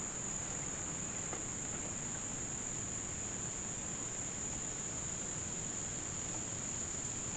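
Steady high-pitched insect chorus, one continuous unbroken trill.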